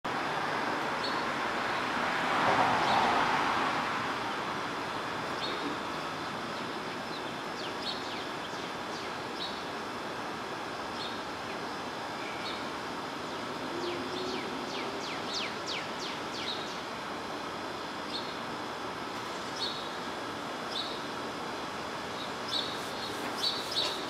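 Short high bird call notes repeating every second or two, with a quick run of sweeping chirps about fifteen seconds in, over steady background street noise. A passing vehicle swells briefly and loudly between about two and four seconds in.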